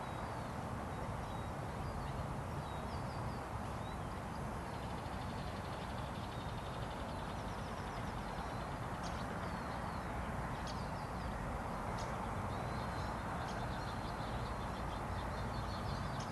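Scattered bird chirps and short trills, growing busier about halfway through, over a steady low background rumble.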